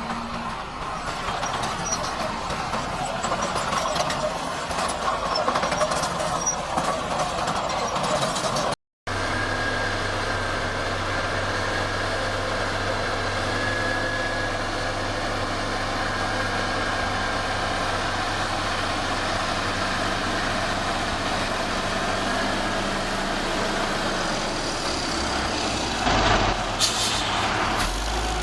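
Heavy diesel engine of earthmoving machinery running, rough and noisy at first, then a steadier drone after a break about nine seconds in. A short, louder noise comes near the end.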